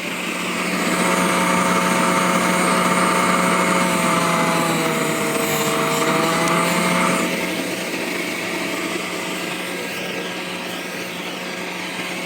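Ozito 36V cordless vacuum blower running, a steady whine of its electric motor and impeller. It speeds up and gets louder about a second in, sags briefly in pitch midway, then eases back to a lower speed after about seven seconds.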